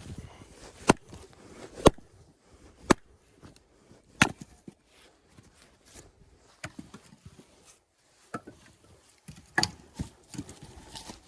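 Axe chopping firewood: a series of sharp strikes, three about a second apart at first and then a few more spaced out, with quieter knocks between.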